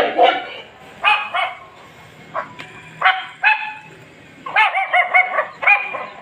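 Small spitz-type dog barking in short, high-pitched yaps at irregular intervals, with a quick run of about five barks near the end.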